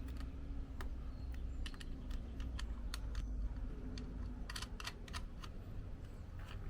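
Scattered sharp clicks and light taps, a quick cluster of them about four and a half seconds in, over a low steady rumble.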